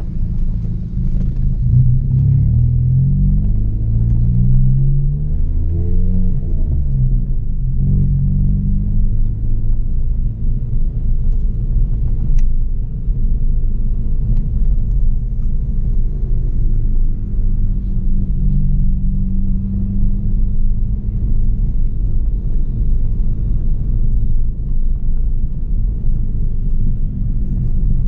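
Chevrolet Astra 2.0 four-cylinder engine through a straight-through exhaust with no muffler, under way: the revs climb twice in quick pulls over the first several seconds, then settle into a steady low drone while cruising, with a gentler rise later on.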